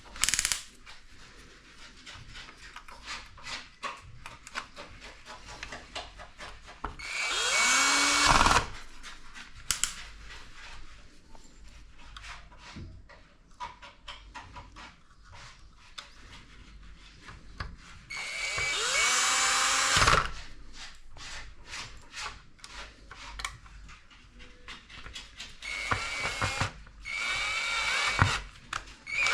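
Cordless electric screwdriver running in three short bursts, each spinning up and winding down, working the screws of an LG OLED65C1 TV's panels and power board. Light clicks and handling of small parts fill the gaps between bursts.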